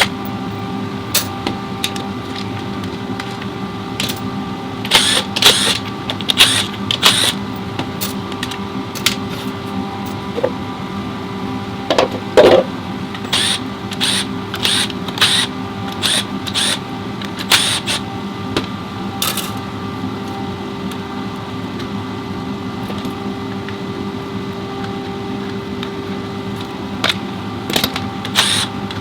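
Metal transmission parts and hand tools clicking and clanking irregularly, in clusters, during work on an automatic transmission, over a steady hum.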